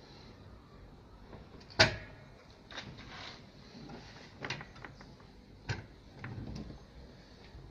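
Handling of a lever-operated foil-lid cup-sealing machine: one sharp clack a little under two seconds in, then lighter clicks and short scraping sounds of its parts being moved.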